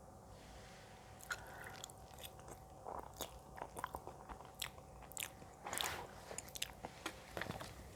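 Close-miked chewing of soft pasta, with soft, irregular mouth clicks and smacks.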